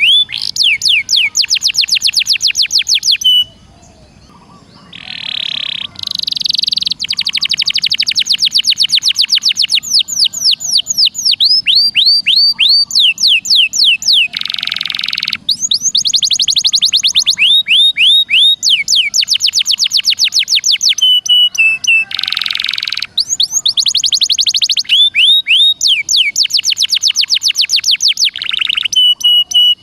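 Recorded songbird song for tutoring cage birds: fast trills of repeated down-slurred whistles, about ten notes a second, in runs of several seconds broken by short harsh buzzy notes. The same phrases come round again and again.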